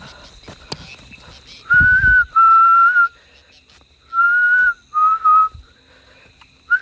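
A person whistling close to the microphone: five short, steady notes of about half a second each, with a low thump of breath or handling under the first. A faint, steady high insect tone runs behind.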